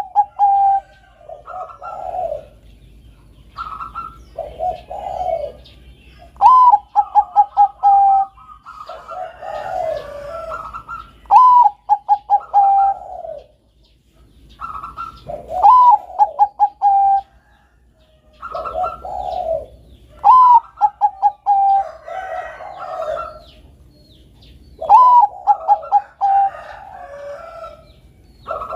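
Zebra dove (perkutut) of the Bangkok song type cooing its song: a phrase repeats every four to five seconds, each a swelling note followed by a quick run of short staccato coos, with other softer coos overlapping between phrases.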